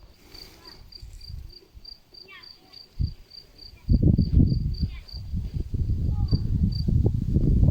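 A cricket chirping in a steady high pulse, about four chirps a second, with a few short falling bird chirps. About four seconds in, a loud low rumbling noise starts and stays louder than the cricket until its chirping stops near the end.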